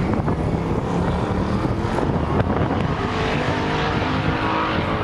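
Two muscle cars' V8 engines, an SS and a Dodge Scat Pack with the 6.4-litre Hemi, running hard in a drag race, a steady dense engine noise throughout.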